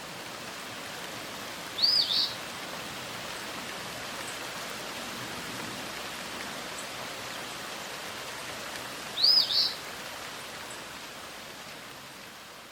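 Steady hiss of outdoor nature ambience, with a bird's short, arching high call sounding twice, about seven seconds apart.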